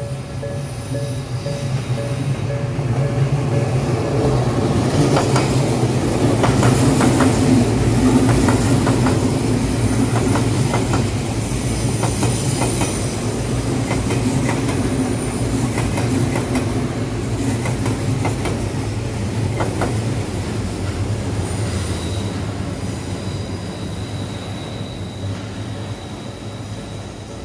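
Odakyu Line electric commuter train passing over a level crossing: a steady low hum with wheels clacking over the rail joints and crossing, growing louder to a peak about eight seconds in and then slowly fading. A thin high wheel squeal comes in near the end.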